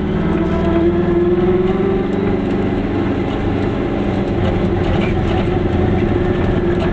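A Goggomobil's small two-stroke twin engine running as the car drives along at low speed, its pitch rising a little about a second in and then holding steady.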